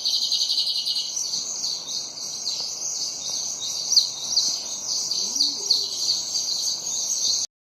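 A flock of sparrows chirping, many short overlapping chirps in a busy, continuous chatter that cuts off suddenly near the end.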